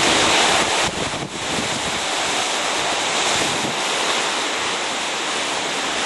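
Hurricane wind on the back side of Hurricane Wilma, after the eye has passed, blowing hard and steadily as a loud rushing hiss that buffets the microphone. It eases for a moment about a second in.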